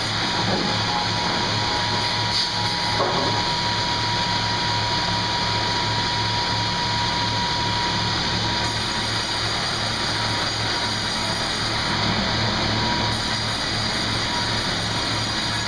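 Sawmill machinery running steadily, with a low hum that pulses at an even rate and a thin whine that fades out partway through.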